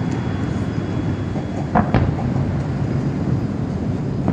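Fireworks going off: a steady low rumble of booms, with two sharp bangs close together about two seconds in.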